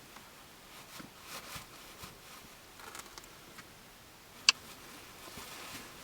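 Quiet interior of a parked car with faint rustling and soft ticks, and one sharp click about four and a half seconds in.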